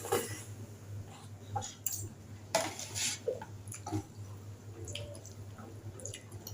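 Close-up eating sounds: wet slurps and chewing of khanom jeen rice noodles in green curry, coming in irregular short bursts over a faint steady low hum.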